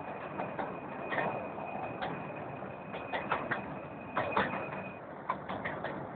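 Miniature steam railway train running along the track: a steady rumble broken by irregular sharp clicks and knocks from the wheels and carriages. A thin, steady high squeal is held until about five seconds in.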